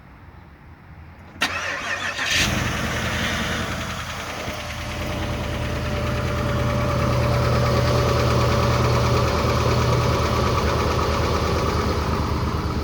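2008 Pontiac Grand Prix GXP's LS4 V8 cold-started at −21°F: the starter cranks about a second and a half in, the engine catches about a second later and settles into a steady cold fast idle, with noisy lifters that are "not happy at all" in the extreme cold.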